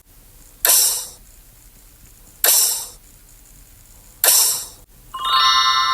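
Game-show sound effects: three sharp hissing hits about two seconds apart, each dying away quickly, then a held electronic chord of steady tones near the end, like a chime or ringtone.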